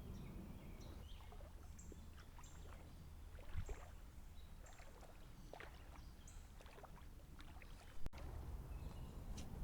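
Light water splashing and dripping around a float tube drifting on a creek, with small bird chirps over a low rumble. A sharp click sounds about eight seconds in.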